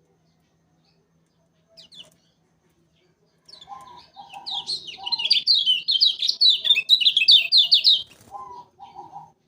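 Kecial kuning, a white-eye, singing: a couple of short chirps, then a fast, high, twittering song of quickly rising and falling notes lasting about four seconds before it breaks off. Short lower notes come at its start and just after it.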